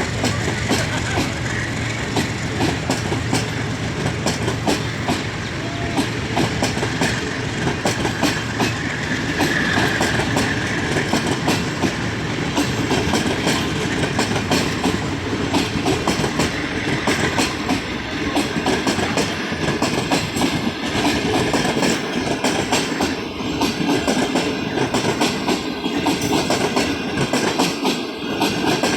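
Train running on the rails, its wheels clattering over the track in a steady, dense clickety-clack.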